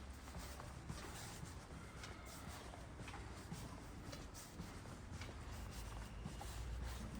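Quiet outdoor ambience from a walk, with faint scattered clicks and scuffs over a low steady rumble.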